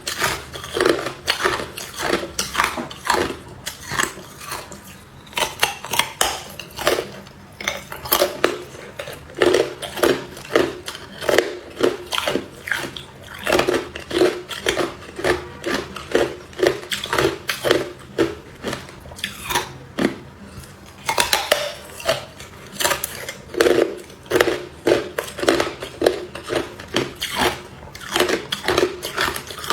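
Hard clear ice being bitten and chewed, a close, continuous run of sharp cracking crunches with uneven pauses.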